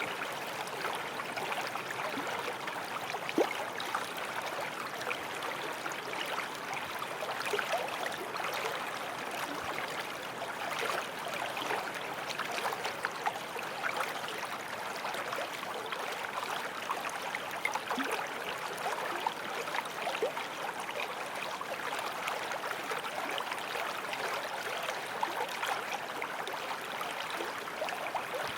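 Forest stream running over stones: a steady rush of flowing water with small splashes and plinks throughout.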